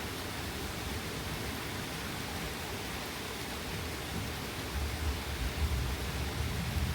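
Steady rain falling during a thunderstorm, with a low rumble building in the bass near the end.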